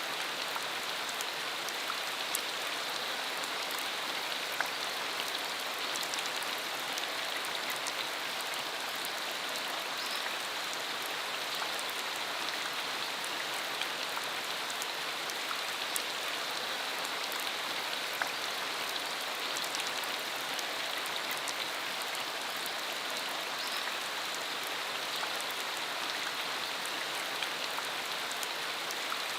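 Steady rain falling, an even hiss with scattered sharp ticks of single drops striking.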